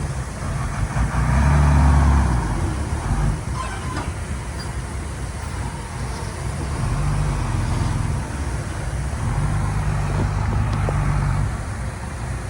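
Heavy diesel engine running, swelling louder about a second in and twice more in the second half.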